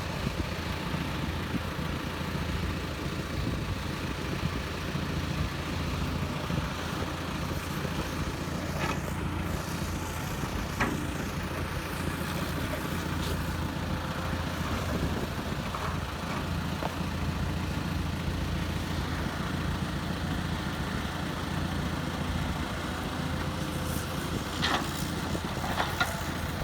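Heavy diesel engine of an excavator or dump truck running steadily, with a few short sharp knocks.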